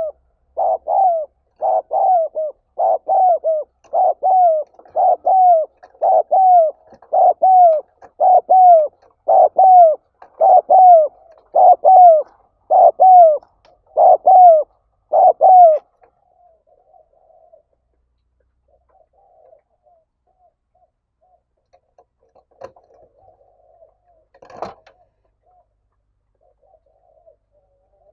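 Spotted dove cooing in a fast, even series of about fifteen coos, roughly one a second, each note dropping in pitch. This is the urgent calling ('gáy thúc') used to lure other doves. The series stops about sixteen seconds in, and two short knocks follow later.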